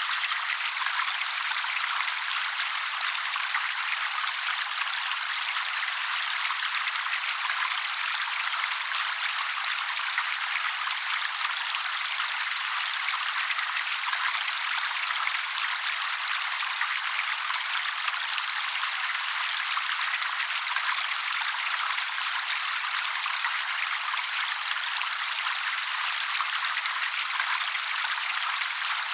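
Water trickling and splashing steadily: a thin, even hiss with no deep rumble.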